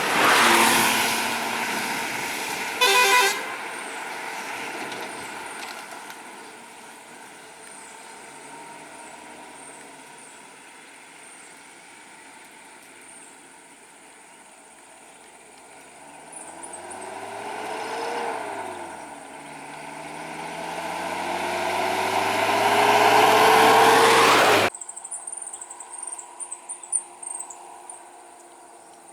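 Road traffic: a short vehicle horn toot about three seconds in. Later an engine climbs in pitch, drops back as if changing gear, then climbs again while growing loud, and cuts off suddenly. Crickets chirp faintly, and more plainly after the cut.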